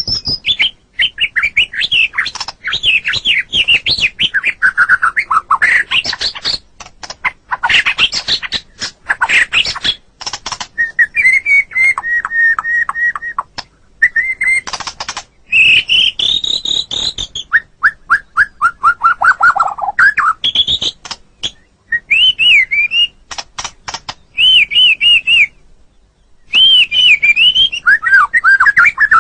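White-rumped shama (murai batu) singing a long, varied song: loud whistled phrases, rapid runs of repeated notes and sweeping glides, broken by three short pauses of about a second.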